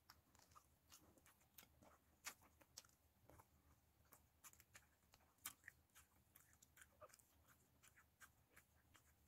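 Faint eating sounds of a person chewing fried fish and rice eaten by hand, heard as soft, irregular clicks a few times a second.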